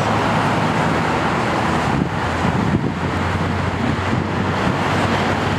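Jet noise from the departing Boeing 737-500's CFM56-3 turbofans at takeoff thrust, a steady rushing sound, with wind buffeting the microphone.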